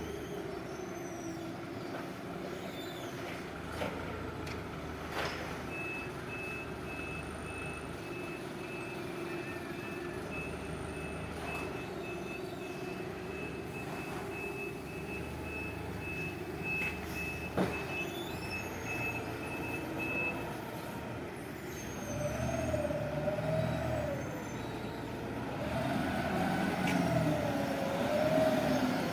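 Forklift running with its reversing alarm beeping steadily for about fifteen seconds, over a constant motor hum, with a few sharp knocks. Near the end a wavering whine rises and falls.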